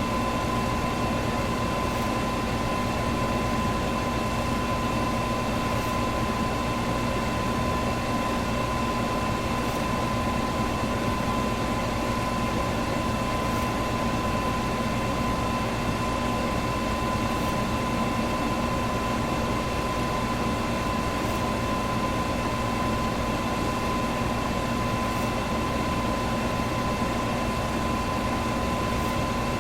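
Electric box fan running steadily: a constant whoosh of moving air with a steady motor hum, and a faint tick about every four seconds.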